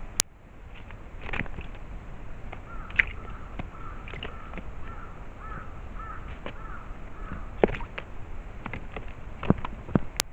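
A bird calling in a quick series of short, repeated notes for a few seconds in the middle, among scattered sharp clicks and taps.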